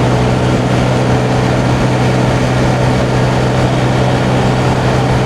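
Honda Navi's small single-cylinder engine running at steady, flat-out revs while the scooter holds about 45 mph, with a constant rush of wind and road noise.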